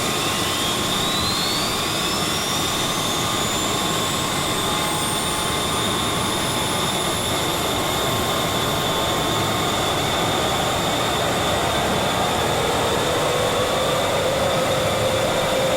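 A steady, loud rushing engine noise with a thin high whine that climbs in pitch over the first several seconds.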